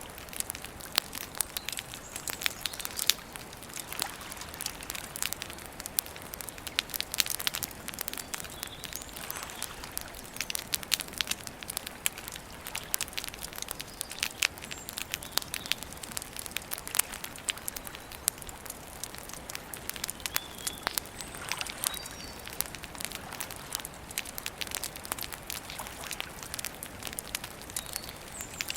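Campfire crackling steadily, with frequent irregular sharp pops and snaps over a low steady hiss. A few faint bird chirps come through now and then.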